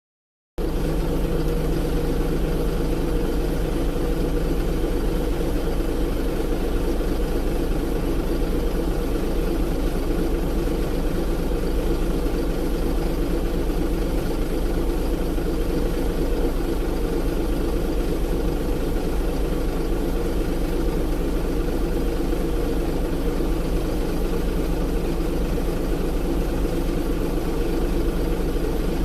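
Excavator engine running steadily at an even, unchanging speed.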